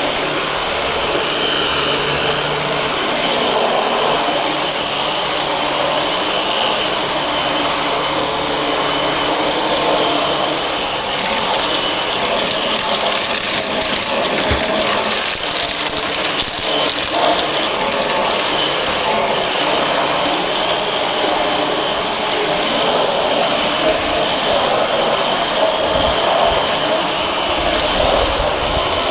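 Corded Dyson vacuum cleaner running steadily at full power with a high motor whine and rushing airflow, with a stretch of crackling in the middle.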